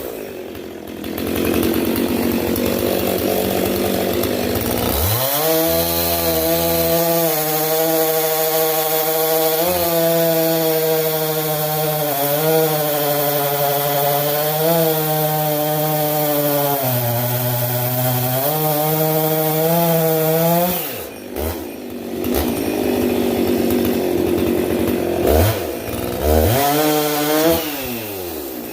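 Husqvarna 262 two-stroke chainsaw cutting firewood at full throttle, its pitch sagging under load for a long cut of about fifteen seconds, then dropping back, with a couple of quick throttle blips near the end. The chain is freshly hand-filed, and the saw is cutting much better for it.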